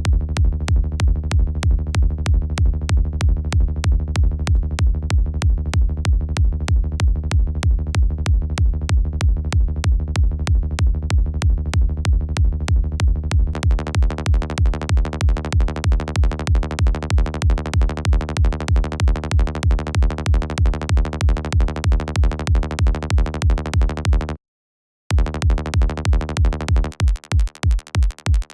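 Synthesized electronic kick drum and synth bass looping in a steady dance beat, the kick from the Kick 2 plugin and the bass from Sylenth. The bass tone changes about halfway through. Near the end the loop stops for a moment and restarts, and then the bass drops out, leaving the kick alone.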